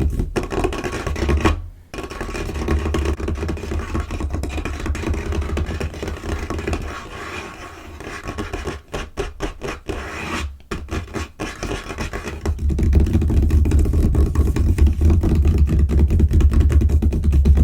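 Fast, aggressive tapping, scratching and scurrying of fingers and nails on a tabletop: a dense stream of quick clicks and scrapes, broken by short pauses twice.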